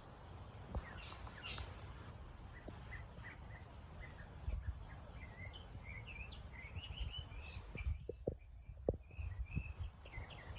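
Birdsong: a long run of short, high chirps and twitters, densest in the second half, over a steady low rumble with a few soft knocks near the end.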